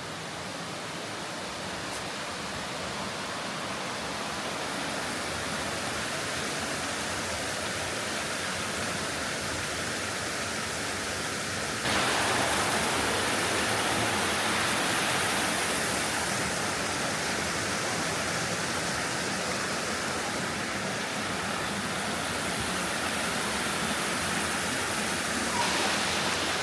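Steady rush of a wide stream's flowing water, a continuous hiss without distinct splashes. It builds slowly and steps up suddenly about halfway through, becoming louder and brighter.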